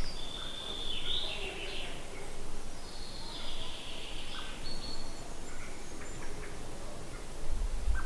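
Birds singing, high chirping phrases that come and go, with a low wind rumble on the microphone near the end.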